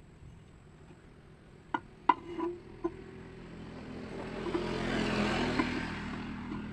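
A few light knocks, then a vehicle's sound that swells, peaks and fades over about three seconds, as of one passing by.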